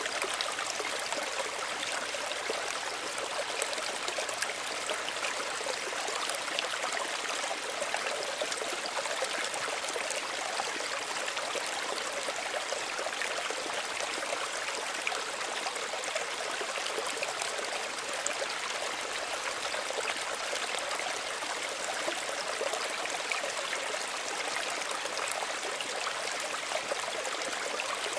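Small stream of shallow running water, trickling and babbling steadily over stones, with fine splashing detail.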